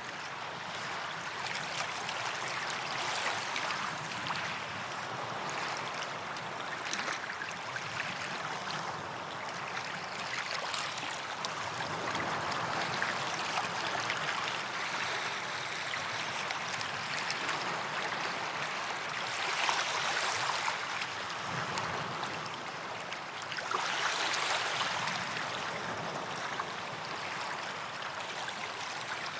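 Small waves lapping and washing onto a sandy beach, with a gentle hiss of water that swells as each wave comes in, most clearly about twenty and twenty-four seconds in.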